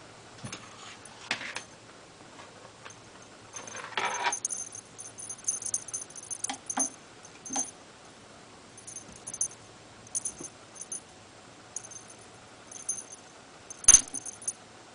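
A small jingle bell jingling in short, irregular bursts as a cat plays with its toy, with soft rustles and knocks in between and one sharper knock with a jingle near the end.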